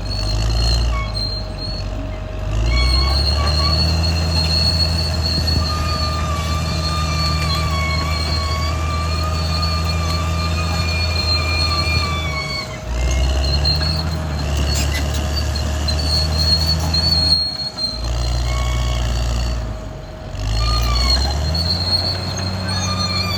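Caterpillar D6R XL bulldozer's diesel engine running under load, its low drone shifting pitch in steps and changing abruptly several times. Over it come high, steady squealing tones from the steel tracks and undercarriage.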